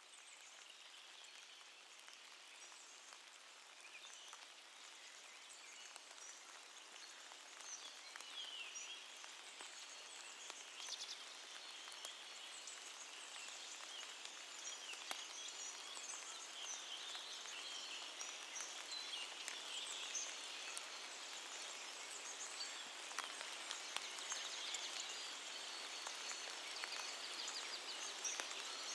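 Steady rain pattering on leaves, fading in, with many birds chirping and calling over it, the calls growing denser and louder.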